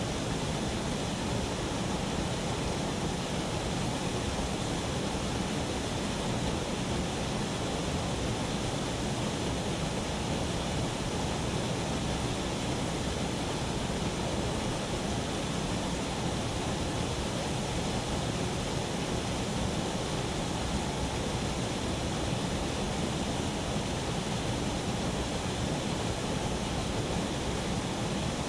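Steady, unchanging rushing of flowing water.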